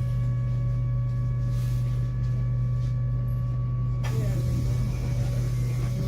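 Tram interior: a steady low electrical hum with a few fixed higher tones, joined about four seconds in by a broad rushing noise.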